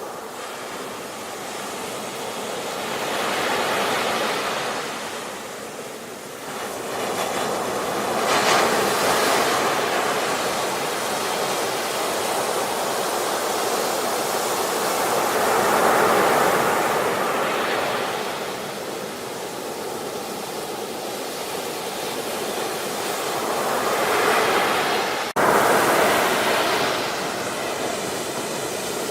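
Ocean surf: waves breaking and washing in as a steady rush that swells louder about four times. There is an abrupt break in the sound near the end.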